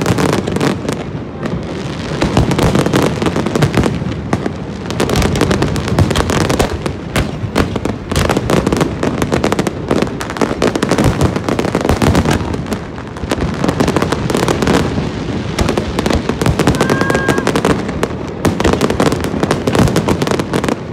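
Fireworks display going off continuously: dense, rapid bangs and crackling bursts overlapping without pause.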